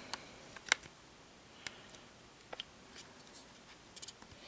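Scattered small clicks and light taps of a plastic collectible figure's parts being handled, the sharpest click a little under a second in.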